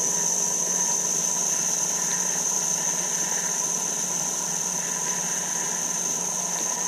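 Levin jeweler's lathe motor running steadily in reverse: a constant hum under a high, even whine.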